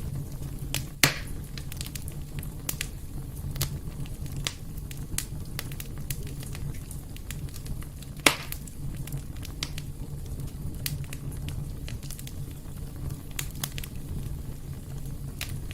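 Fire burning in a fireplace: a steady low rumble with frequent crackles, and two louder pops, about a second in and about eight seconds in.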